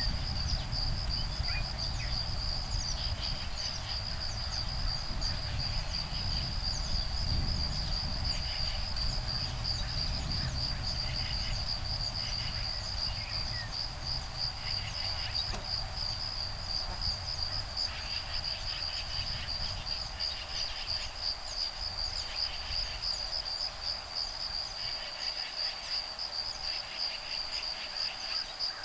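Insects trilling steadily in a high, fast-pulsing chorus, with short bursts of chattering calls every few seconds that the recordist takes for woodpecker nestlings and their parents calling. A low breeze rumble on the microphone, stronger in the first two thirds, fades toward the end.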